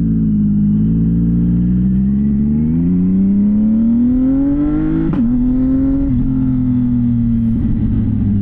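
CFMoto 675NK's inline-three engine through a titanium full-system exhaust, pulling under acceleration with its note rising steadily, then a sharp break about five seconds in, like a gear change, after which the engine runs on at a lower, slowly falling note.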